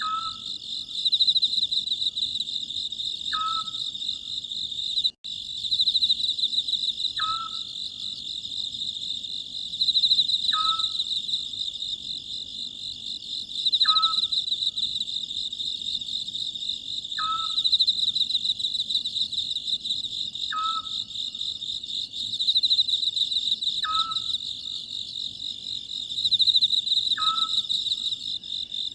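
Night chorus of crickets trilling steadily, with an Oriental scops owl giving a short call about every three and a half seconds, nine times. The whole sound cuts out for an instant about five seconds in.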